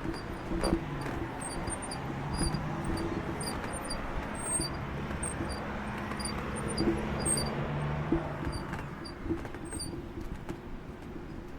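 Silence S01 electric scooter on the move: a low electric motor hum under road and wind noise, with short high chirps repeating irregularly through most of it.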